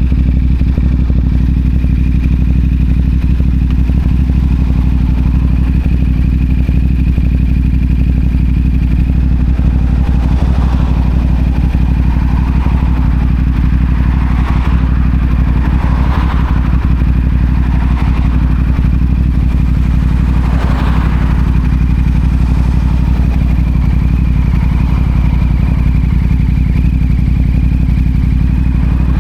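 CFMoto 450SR's parallel-twin engine running at a steady, unchanging engine speed through a Yoshimura AT2 slip-on exhaust, with no revving. A few brief swells of other noise come through in the middle.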